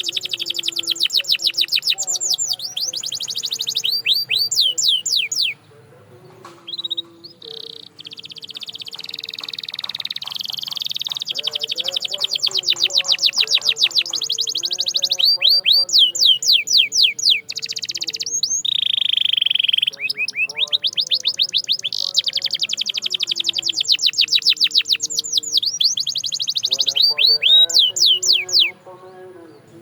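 Domestic canary singing: long, fast trills of rapidly repeated high notes, alternating with short rolling phrases. The song breaks off briefly about six seconds in, then resumes and runs on in long trills until it stops shortly before the end.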